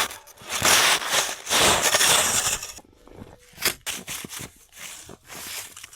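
Rotten roofing breaking up and sliding down the cabin roof: two long crunching, rushing slides, then a scatter of sharp knocks and clatters as pieces come down.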